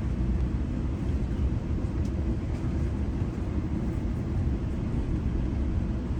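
Steady low rumble of a GO Transit commuter train running along the track, heard on board.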